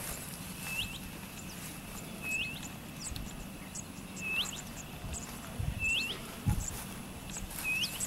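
A bird calling over and over, five times, every second and a half or so: each call is a short steady whistle that swings sharply upward at its end. A few low thumps and faint high chirps sound between the calls.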